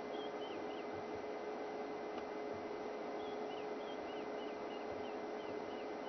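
A bird calling in runs of short, quickly repeated notes, a few near the start and a longer run about three seconds in, over a steady hum and hiss.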